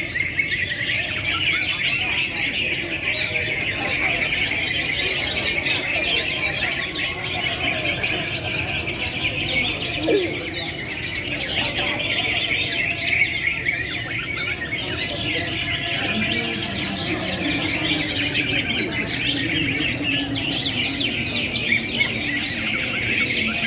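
Many caged songbirds chirping and trilling at once in a dense, unbroken chorus of quick overlapping notes.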